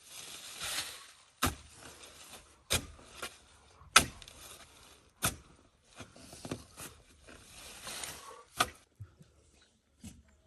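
A series of sharp knocks, about a second or more apart, with stretches of rustling noise between them.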